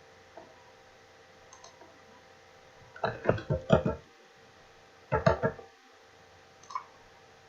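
Computer mouse clicking: a few single clicks, and two quick runs of several louder clicks about three seconds in and again about five seconds in.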